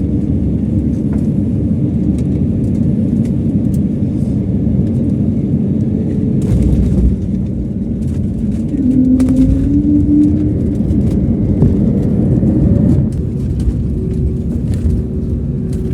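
Passenger jet cabin noise: a steady low rumble, with a few sharp knocks about six and nine seconds in and an engine tone rising from about nine seconds that cuts off suddenly near thirteen seconds.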